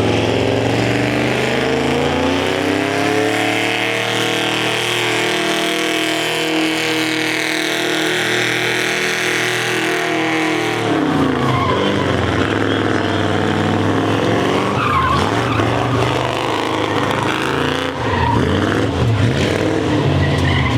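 Car engine held at high revs during a burnout, with tyres spinning and squealing against the pavement. The revs climb over the first few seconds and hold high until about ten seconds in, then drop, and the engine runs on unevenly with rev blips.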